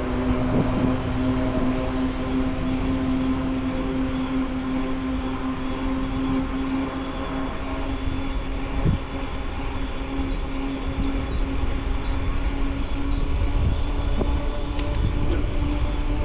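Steady riding noise of an e-mountain bike: a constant hum from the drive and knobby tyres over a low rumble of rolling and wind on the handlebar-mounted microphone.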